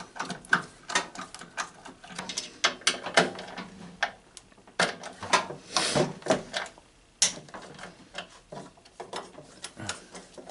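Ratcheting screwdriver clicking in irregular bursts while screws are turned out, with small metallic knocks of the tool against the parts.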